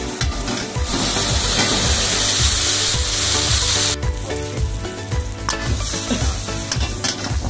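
Food sizzling and frying in a hot steel wok over a gas burner, with a metal ladle stirring and scraping. The sizzle is loud for the first four seconds, then drops suddenly to a softer sizzle. Background music with a steady beat plays throughout.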